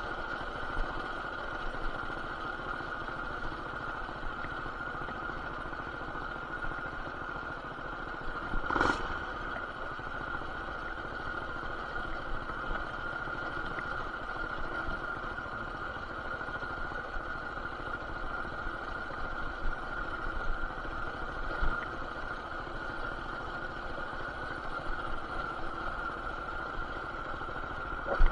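Baja BT200X mini bike's single-cylinder four-stroke engine, with aftermarket header and RLV exhaust, running at a steady speed while riding, muffled through an action camera's plastic case. A single short knock sounds about nine seconds in.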